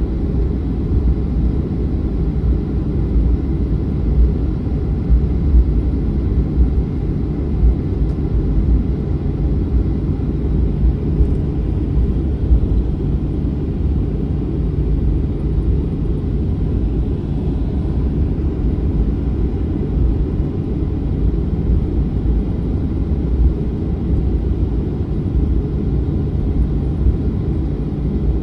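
Boeing 737-900 jet airliner with its CFM56 engines running at low power: a steady low rumble with small bumps and no rise in pitch.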